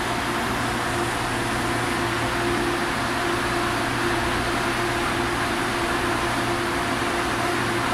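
Steady running noise inside the cabin of an MTR Airport Express A-Train travelling through a tunnel: an even rush with a constant low hum and a faint steady tone, unchanging throughout.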